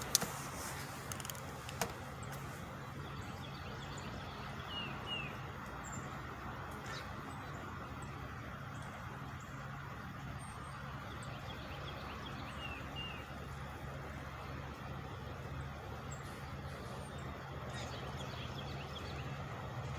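Engine held running at high speed, a steady low hum that does not change, with a few sharp clicks near the start and faint bird chirps twice.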